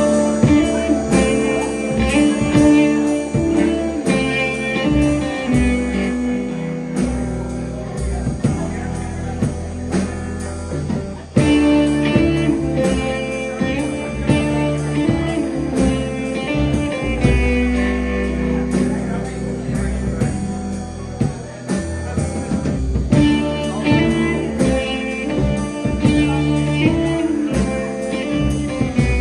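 Live band playing an instrumental passage: guitar over bass and drums, with a short break about eleven seconds in.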